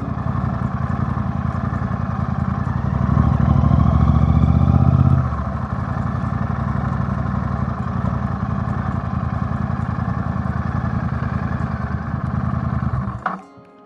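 A vehicle engine running steadily at idle, louder for about two seconds some three seconds in, then settling back before cutting off suddenly near the end.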